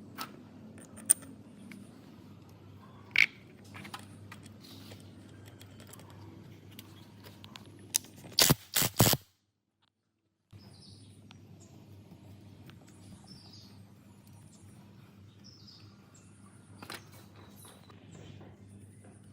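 Scattered sharp clicks and knocks over a low steady hum, with a quick run of loud knocks about eight seconds in; the sound drops out completely for about a second just after.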